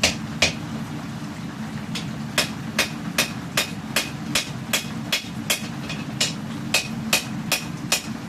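Hand hammer striking hot steel while forging a katana blade: two blows, a pause of about a second and a half, then a steady run of ringing blows, about two and a half a second. A steady low hum runs underneath.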